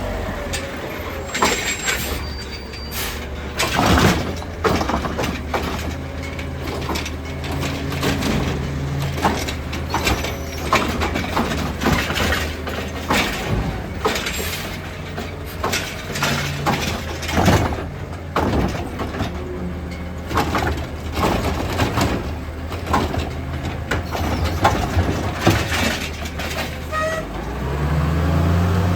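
CCC Heil Rapid Rail automated side-loading garbage truck at work: its engine runs steadily under many sharp knocks and clatters from the collection work. The engine revs up near the end.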